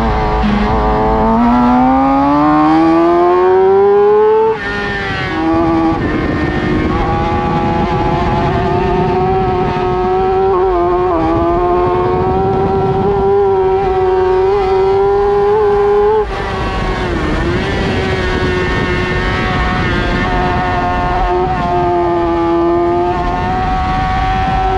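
A racing sportbike engine at high revs. Its pitch climbs for about four seconds under acceleration, then drops abruptly. It picks up again and holds high revs with small wavers, and drops sharply once more about sixteen seconds in.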